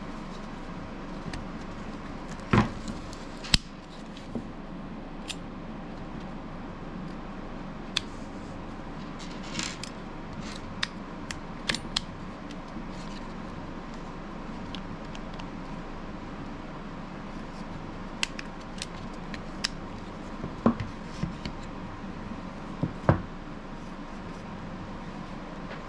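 Scattered sharp clicks and taps of small hard parts being handled, a belt clip and knife sheath, with a brief rustle near the middle, over a steady background hum.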